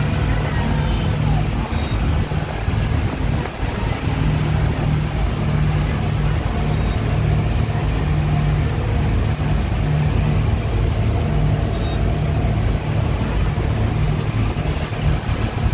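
Speedboat engine running steadily at cruising speed, heard on board as a constant low drone over a rushing noise.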